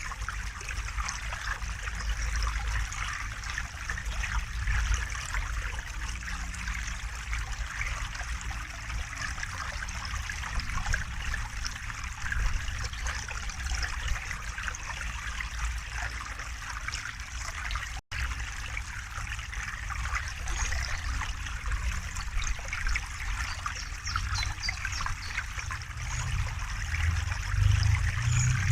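River water running and trickling steadily, with a low rumble beneath that swells near the end. The sound cuts out for an instant about two-thirds of the way through.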